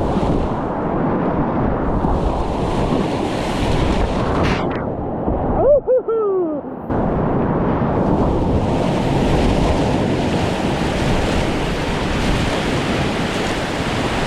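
Rushing whitewater and wind on the microphone. The sound goes muffled for about two seconds in the middle, and a short falling whoop is heard during that stretch.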